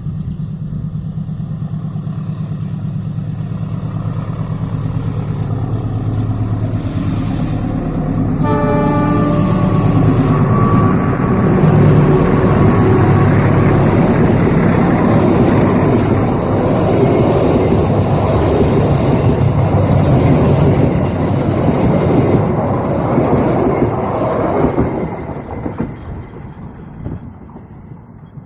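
Diesel-electric train locomotive running, its engine a steady low hum. About eight seconds in it gives one short horn blast. The train then passes with a loud rumble of wheels on rail for about fifteen seconds, and the sound fades away near the end.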